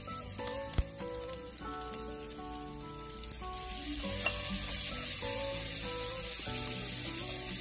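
Diced onion, garlic and ginger frying in oil in a nonstick pan, sizzling steadily, with a single sharp knock about a second in. Diced tomatoes are tipped into the pan about four seconds in, and the sizzling gets louder.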